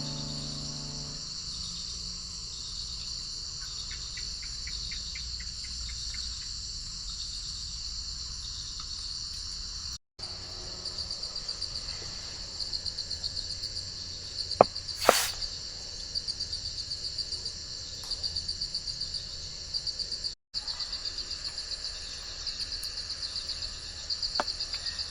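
Chorus of insects, crickets or similar, keeping up a steady, rapidly pulsing high trill. A couple of sharp clicks come about halfway through.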